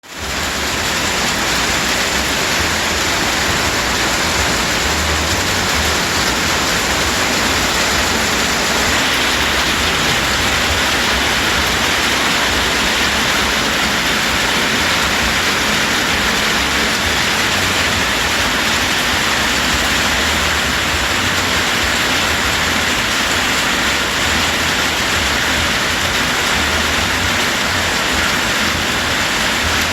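Heavy summer rain falling steadily, a dense, even hiss with an uneven low rumble underneath.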